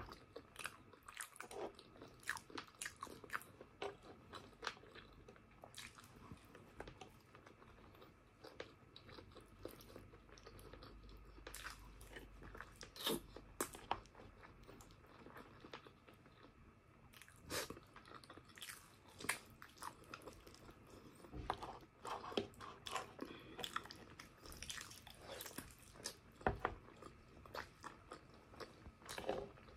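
Close-miked chewing of braised pork hock (pork pata estofado): irregular wet mouth clicks and smacks as the soft meat and skin are chewed.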